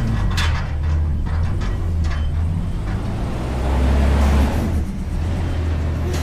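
Front-load garbage truck engine running steadily, swelling up about four seconds in and easing off, with a few sharp knocks in the first second.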